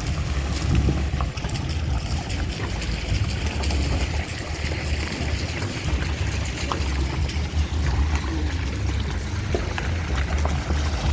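Vehicle driving on a rough, broken road: a steady low rumble of engine and road noise, with scattered small knocks and rattles.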